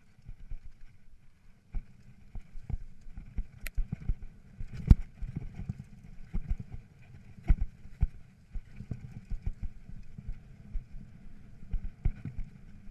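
Mountain bike rolling over rough singletrack: a steady rumble of tyres on the trail with irregular knocks and rattles from the bike over rocks and roots, the sharpest about five seconds in.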